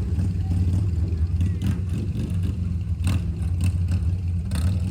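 A motor vehicle engine running at a steady speed: a continuous low drone, with a couple of short knocks about three seconds in and near the end.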